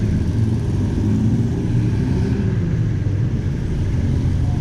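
City street traffic: a motor vehicle's engine running close by, a steady low rumble.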